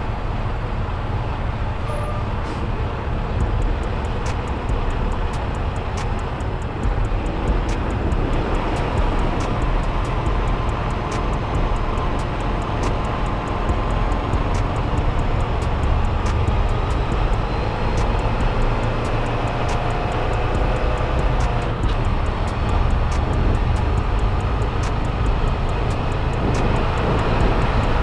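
Semi-truck running as it gets rolling: a steady, loud engine and road rumble.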